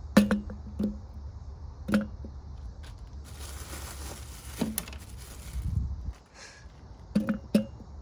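Potatoes dropped one by one into a metal cooking pot, each landing as a knock with a short metallic ring, about six in all, with a brief rustle around the middle.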